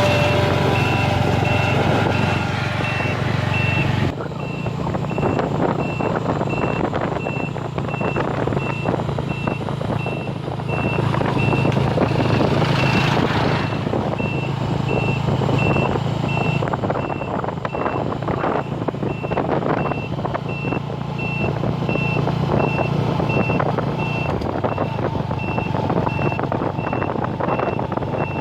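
Reversing alarm of a heavy vehicle beeping in an even, repeating pattern of short high beeps, over a steady low engine hum.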